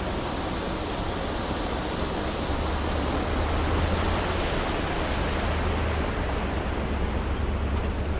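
Steady rushing water, an even hiss with a low hum underneath.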